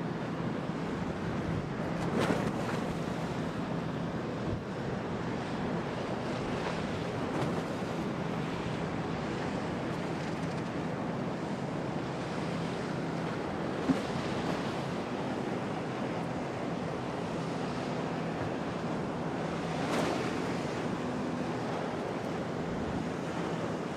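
Storm wind and waves in a harbour: a steady rush of wind and surf, with louder surges about two seconds in and near the end. Under it runs a faint steady low hum, and there is one sharp click about two-thirds of the way through.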